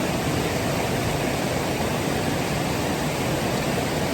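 Waterfall rushing close by: a steady, even wash of falling water.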